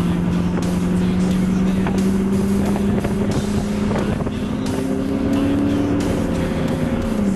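Ford Mustang engine heard from inside the cabin under steady throttle, a droning note that climbs slowly in pitch as the car pulls, with a second tone sliding down near the end.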